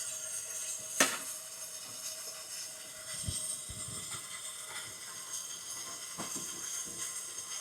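Handling of a gas water heater's metal burner access cover: one sharp click about a second in, then a few soft knocks, over a faint steady hiss.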